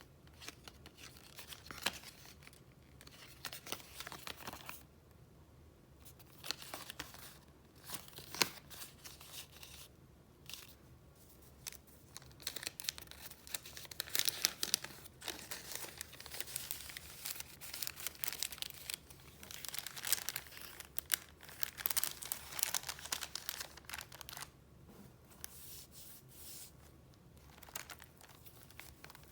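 Paper goods in a retro file being handled and flipped through. Irregular rustling and crinkling that comes and goes, with a few sharp taps, busiest in the middle stretch.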